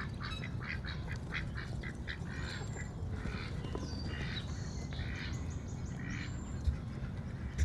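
Ducks quacking in quick runs of short calls, with other poultry calling now and then, over a steady low rumble of wind on the microphone. Two brief knocks come near the end.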